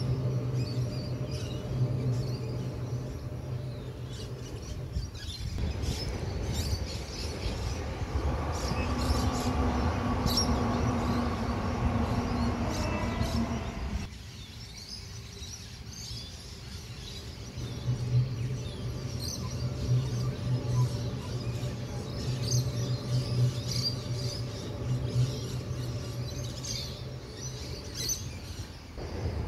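Train running with a low, steady engine drone, and for a stretch in the middle a higher whine that rises slightly; birds chirp throughout. The sound changes abruptly a few times.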